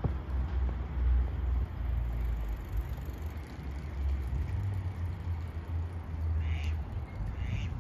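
A steady low rumble, with two short bird chirps near the end, about a second apart.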